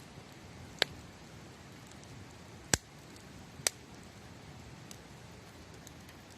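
Campfire crackling: three sharp pops, about a second in, near the middle and a second later, with a few faint ticks between, over a steady low hiss.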